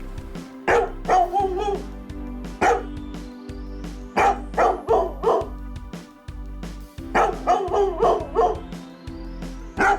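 A dog barking repeatedly in short clusters over steady background music.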